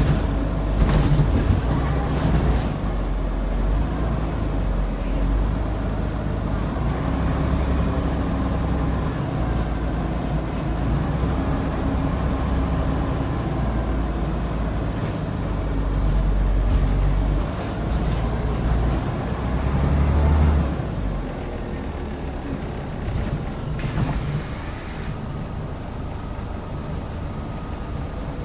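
Scania DC09 five-cylinder diesel engine of a Scania N94UD double-decker bus working hard, its pitch rising and falling several times as the bus accelerates and changes gear. A brief hiss of air comes about three-quarters of the way through.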